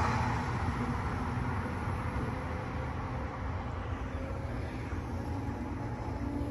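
Rail noise of a passing Amtrak passenger train dying away as the train moves off, leaving a low steady rumble.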